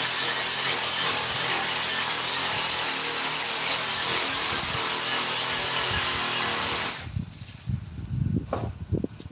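A power tool running steadily, cutting off about seven seconds in, followed by several low knocks as the work is handled.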